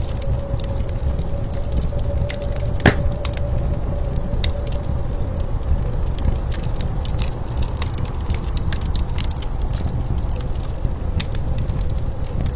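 Wood fire crackling and popping, with one louder pop about three seconds in, over the steady low rumble of blizzard wind and a faint steady whistling tone.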